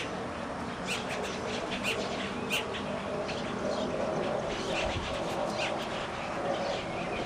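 Birds chirping in many short, high calls over a steady background noise.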